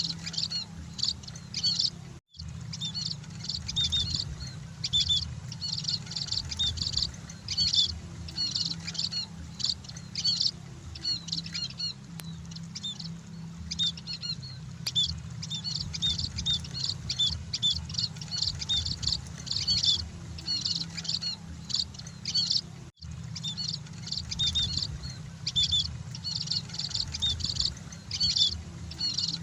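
A flock of munias (emprit) chattering in a continuous stream of short, high chirps, over a steady low hum. The sound cuts out completely for an instant twice, a few seconds in and near the end.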